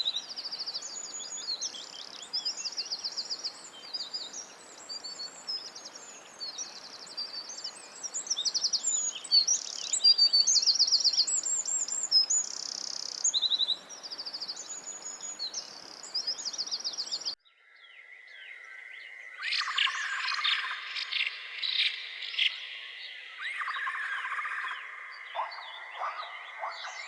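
Songbirds singing, with rapid high trills and repeated chirps over a light background hiss. About two-thirds of the way through, the sound cuts abruptly to another recording: a steady high tone under a dense chorus of chirps.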